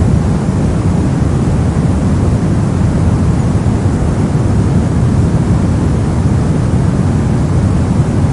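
Steady, soft sleep-aid noise, heavy in the low end and rolling off toward the treble, with no changes or events.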